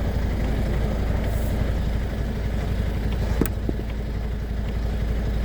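Truck engine running steadily with a low rumble, and a single sharp click about three and a half seconds in.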